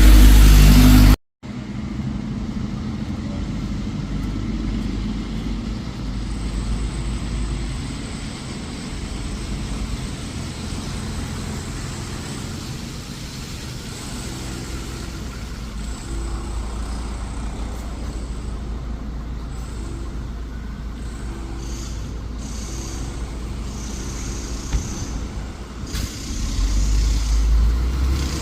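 Diesel bus engine running with road traffic around it, a steady low rumble. The sound cuts out for a moment about a second in, then resumes, and grows louder near the end.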